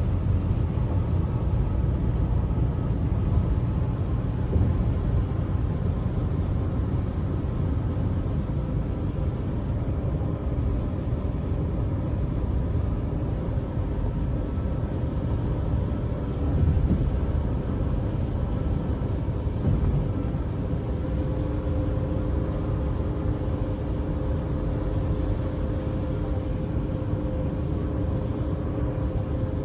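Steady low rumble of a moving vehicle, engine and road noise, with a faint hum that grows a little stronger after about twenty seconds.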